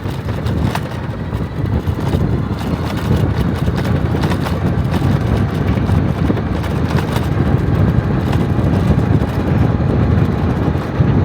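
Steady low rumbling vehicle noise, with no clear engine note.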